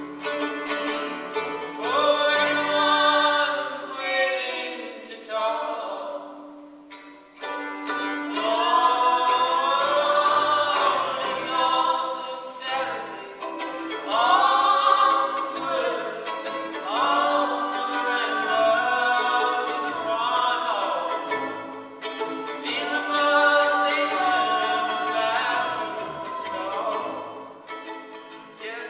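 Live song performance: a male voice sings phrases of a few seconds each over bowed violin and a steady sustained lower note.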